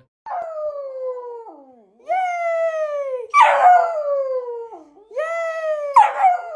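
Dog howling: three long howls, each sliding down in pitch, with a harsher, louder yowl breaking in about three and a half seconds in and again near the end.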